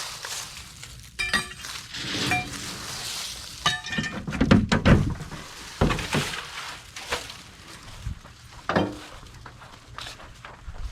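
Scrap metal pieces being handled and dropped: a string of clanks, some ringing like struck metal, mixed with heavier thuds.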